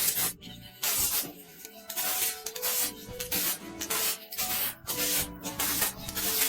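A series of rough rubbing or scraping strokes, roughly one a second, like abrasive work on a hard surface, over background music.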